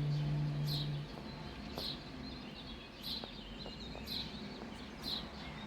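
A singer's held last note ends about a second in; then short, high, falling chirps repeat about once a second, with faint twittering between them.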